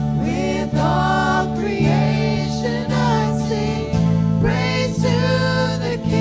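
A worship song: a voice singing over sustained instrumental chords.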